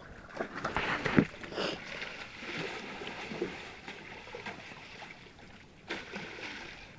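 Water splashing and sloshing in a shallow creek, with a few sharp knocks, the loudest about a second in and another near the end.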